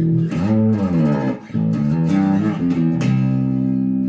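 Epiphone Grabber electric bass played through a Tone Hammer preamp with its Music Man-style humbucker split to single coil. Plucked notes with a slide up and back down about half a second in, a short gap, then a few more notes and a held note near the end.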